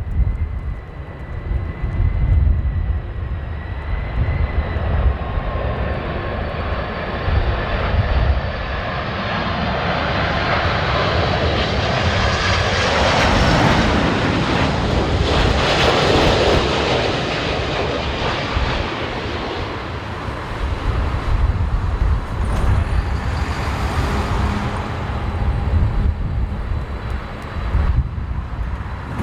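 Jet airliner on landing approach passing overhead: a whining engine tone and a roar that swell to a peak about halfway through and then fade away. Strong gusty wind buffets the microphone throughout.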